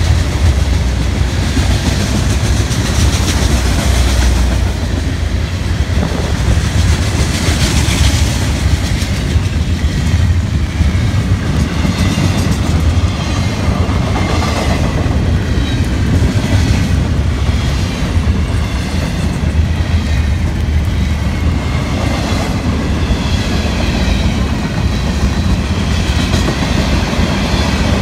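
Long mixed freight train passing close by at speed: a steady heavy rumble of cars rolling over the rails with clickety-clack from the wheels over rail joints. A mid-train locomotive passes about halfway through.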